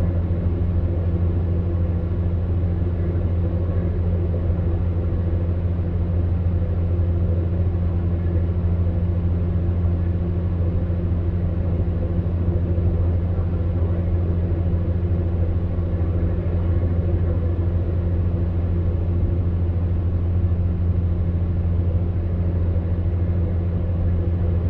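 Electric fan heater running steadily: a constant low hum with an even rush of blown air over it.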